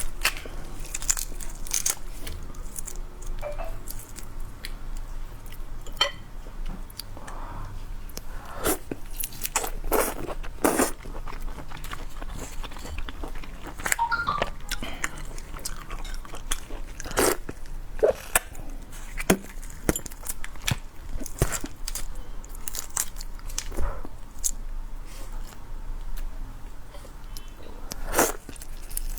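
Close-miked eating: crunchy bites and chewing, with scattered sharp crunches and clicks throughout.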